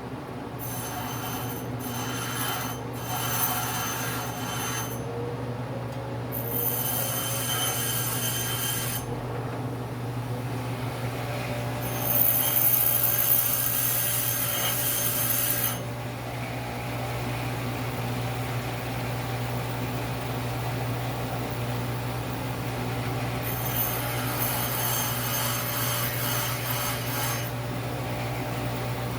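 Grinder motor running steadily while a lathe tool bit is pressed against the wheel in four separate passes, each a rasping hiss, the third (about twelve seconds in) the loudest. The bit's nose radius is being ground off so that it can cut both ways.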